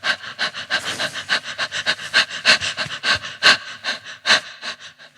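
A person panting hard and fast, about four short breaths a second, growing weaker near the end.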